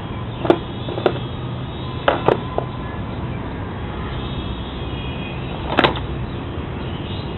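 Skateboard rolling, a steady rumble of the wheels broken by several sharp clacks of the board, the loudest a pair about two seconds in and another near six seconds.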